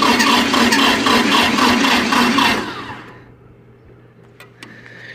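Antique John Deere diesel tractor engine cranking over on its electric starter in the cold, a fast rhythmic chugging that does not catch. About two and a half seconds in the cranking stops and the engine spins down to rest.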